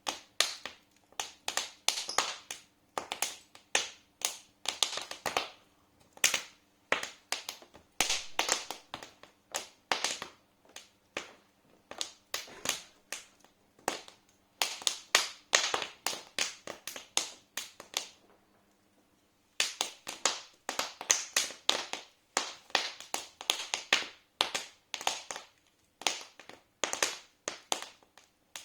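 Wood fire in a fireplace crackling: irregular sharp pops and snaps coming in quick clusters, with a pause of about a second and a half roughly two-thirds of the way through.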